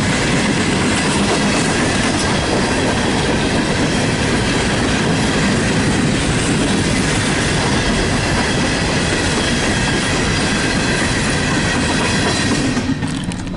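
Empty coal cars of a CSX freight train rolling past close by: a loud, steady rumble and clatter of steel wheels on the rails, with a faint high-pitched wheel squeal. The noise falls away sharply about a second before the end.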